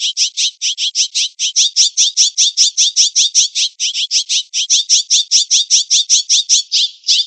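A jay calling in a fast, unbroken series of short, high notes, about five a second, cutting off abruptly at the end.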